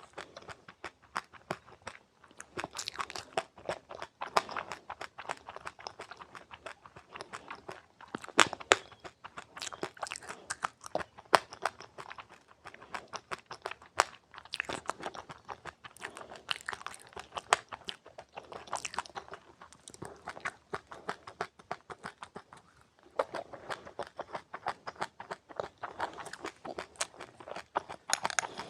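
A person chewing crunchy seeds, giving dense, irregular crunching with a few brief pauses.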